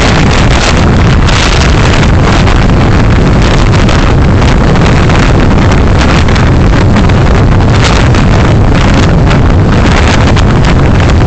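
Loud, steady road and wind noise of a car being driven, picked up by a dashcam microphone, with many small knocks and gusts.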